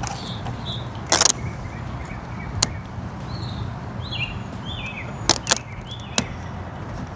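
A handful of sharp clicks and taps from handling the vinyl chrome-delete trim pieces on the car's window trim: a quick cluster about a second in, then single ones spread out, over a low steady hum.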